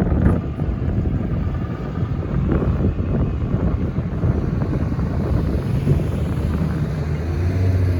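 Union Pacific freight train rolling past, a loud rough low rumble with wind buffeting the microphone; a steady engine hum comes in near the end.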